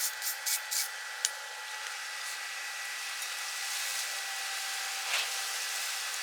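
A few rhythmic strokes, about four a second, end about a second in. A sharp click follows, then a steady hissing stick-welding arc.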